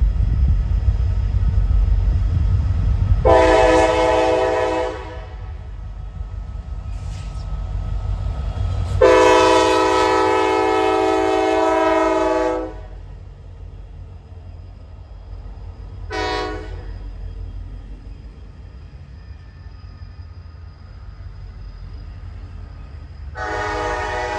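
Diesel locomotive air horn sounding the grade-crossing signal: long, long, short, long. It plays over the low rumble of the lead locomotives, which fades away after the second blast.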